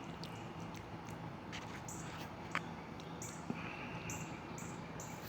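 Insects chirping outdoors in short, high-pitched pulses repeating about once or twice a second, over a steady low hum, with a few faint clicks.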